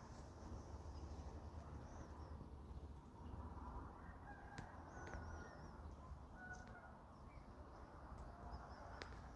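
Faint outdoor ambience: scattered, brief distant bird chirps over a steady low rumble.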